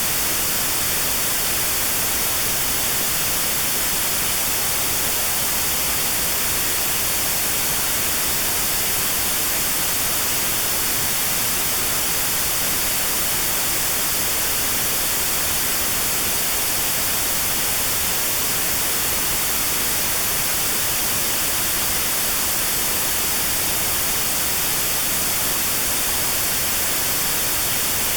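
Steady notch-filtered white noise for tinnitus sound therapy: an even hiss with a narrow band around 4 kHz taken out, the usual pitch of tinnitus.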